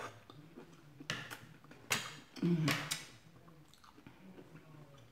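Close-miked chewing of a mouthful of boiled seafood: wet mouth clicks and smacks, with a short closed-mouth hum of enjoyment about halfway through, the loudest sound.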